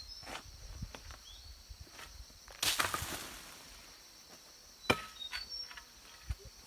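Steady high drone of insects, with a loud rush of noise about two and a half seconds in that fades over half a second, and a sharp knock near five seconds in.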